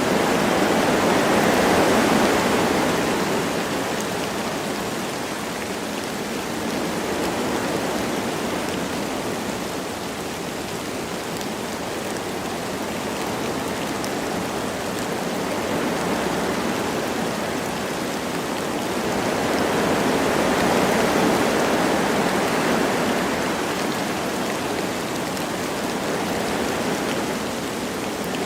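Wind blowing through forest trees with light rain falling, a steady rushing noise that swells in gusts, louder about two seconds in and again about twenty seconds in.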